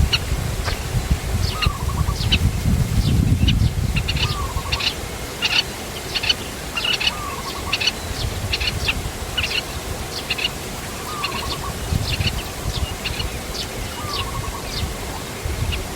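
Small birds chirping: short high chirps come about twice a second, and a lower, falling call with a brief trill recurs every three seconds or so. A low rumble runs underneath.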